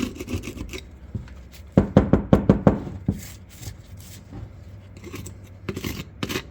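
Hand tool scraping and chipping rust flakes off the old steel shotgun barrels: scattered scratches and clicks, with a quick run of about seven sharp knocks about two seconds in and another short flurry near the end.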